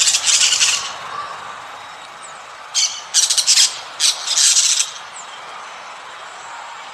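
Harsh bird squawks in four loud bursts, one at the start and three close together a little before the middle, with a couple of faint short chirps between them.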